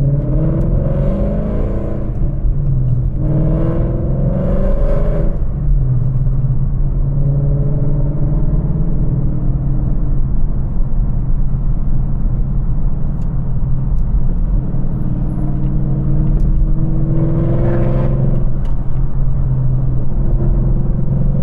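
Ford Mustang GT's 5.0 V8, breathing through longtube headers, droning steadily while driving, its pitch climbing under throttle three times: near the start, around four seconds in, and near the end.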